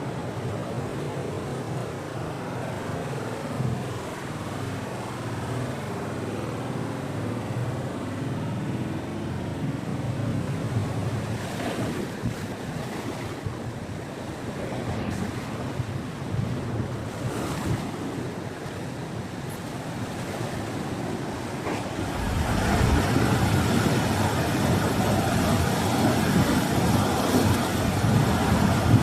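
Ocean surf washing onto a beach, with wind on the microphone; the rumble grows louder from about 22 seconds in.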